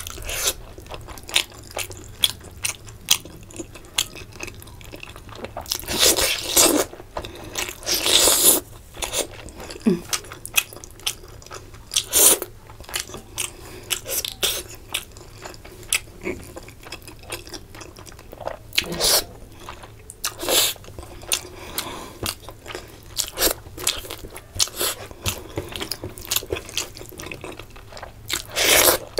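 Close-miked mukbang eating: wet chewing and biting of rice and fish curry eaten by hand, with irregular mouth clicks and smacks. Several longer, louder bursts of noise come about six and eight seconds in.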